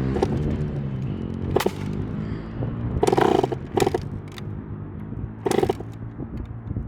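Small dirt bike engine running at low revs, a steady low drone, with a few short louder bursts as the beginner works the throttle and clutch.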